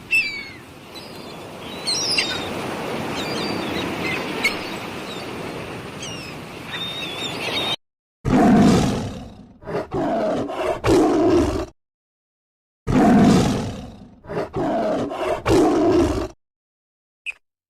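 Outdoor ambience with small birds chirping, then a large animal's low roar followed by a run of shorter grunts, heard twice in identical form about 8 and 13 seconds in.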